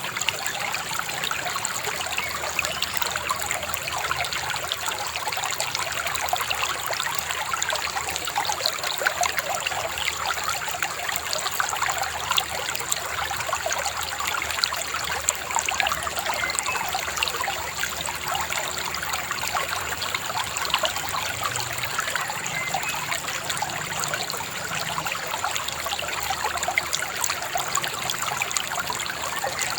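A shallow river babbling and trickling over stones, a steady bubbling rush with a thin, steady high tone running underneath.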